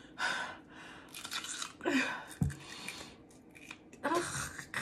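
A person chewing and crunching a hard raw food close to the microphone, in short bursts of wet crunching, with a couple of brief throaty vocal noises in between.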